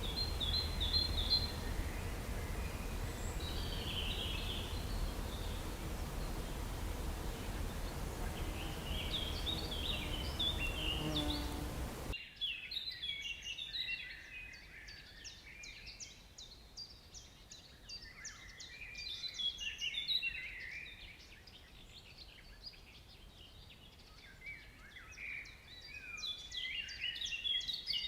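Birds chirping and calling over a steady low rumble and hiss; about twelve seconds in the rumble cuts off abruptly, leaving a quieter background with a denser chorus of short, quick bird calls.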